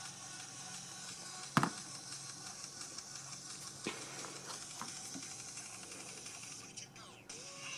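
Faint steady hiss with a few light clicks and taps from small plastic model-kit parts being handled; the sharpest click comes about a second and a half in.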